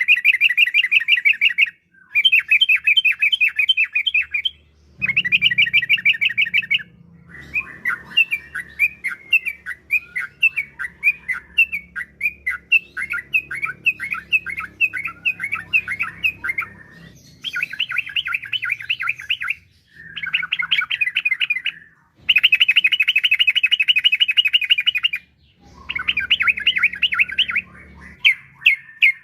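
Yellow-vented bulbul (trucukan) singing: bubbly phrases of rapid, repeated notes in bursts of a few seconds with short pauses between them.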